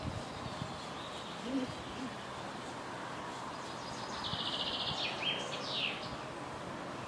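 Outdoor ambience of steady background noise, with a songbird singing: a rapid trill about four seconds in, then two quick downward-sliding notes.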